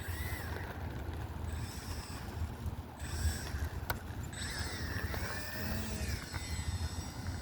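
Electric motor and propeller of an E-flite UMX Turbo Timber Evolution micro RC plane whining in flight, the pitch rising and falling as it throttles and passes, over a low wind rumble on the microphone.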